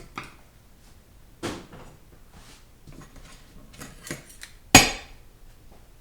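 Metal 4L60E transmission parts being handled and set down on a workbench: a few light clinks and knocks, with one loud sharp metallic clank about three-quarters of the way through.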